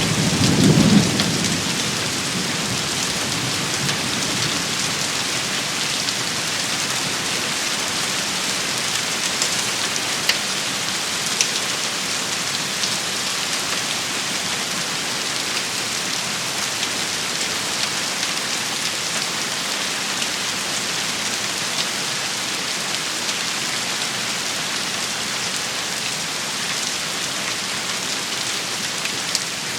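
Steady heavy rain shower falling on surfaces. A low rumble, like distant thunder, sounds in the first two seconds.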